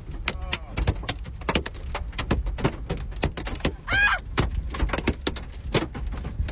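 Hailstones banging irregularly on a car's roof and windshield, several sharp strikes a second, over the low rumble of the moving car.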